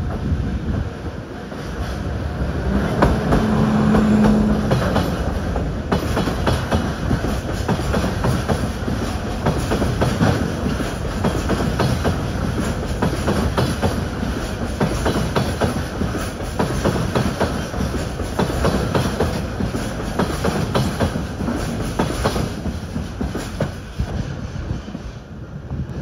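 Freight train of tank wagons rolling slowly past behind an HD200 shunting locomotive, its wheels clicking steadily over the rail joints and points. A brief low steady tone sounds about three seconds in.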